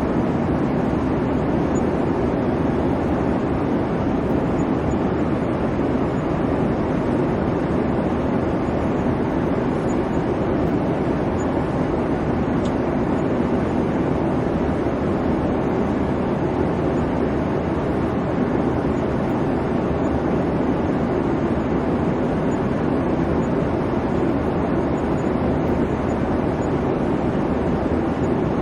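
Airliner cabin noise in flight: a steady, even rumble of engine and airflow, strongest low down, with no changes.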